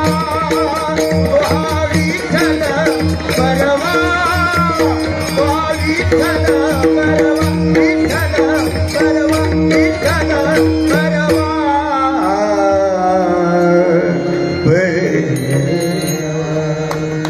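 Marathi devotional bhajan: a singer's voice over a steady held drone, with a hand drum and small cymbals keeping a regular beat that thins out near the end.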